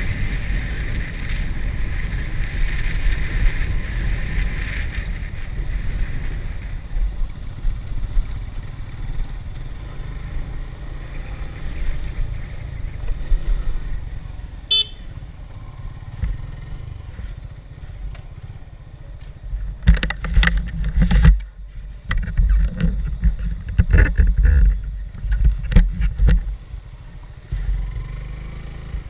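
Motorcycle running on the move, with a steady low rumble and wind on the microphone. The low rumbling comes in loud gusty bursts over the last third.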